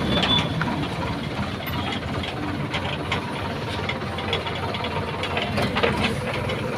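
Tractor engine running steadily, with short light clicks and rattles over it.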